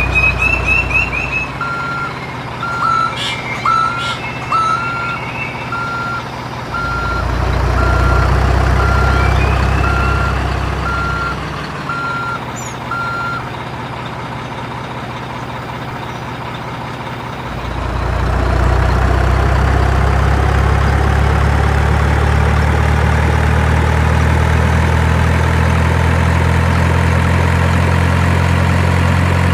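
Truck reversing: a dozen or so evenly spaced reversing beeps, a little under one a second, over a low engine hum. The engine hum fades and returns twice, then runs steadily louder through the second half.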